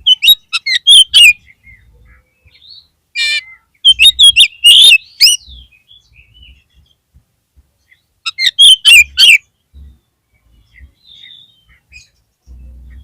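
Oriental magpie-robin (kacer) singing in three loud bursts of rapid, sharp whistled notes, the first near the start, the second a few seconds in and the third past the middle, with short pauses between.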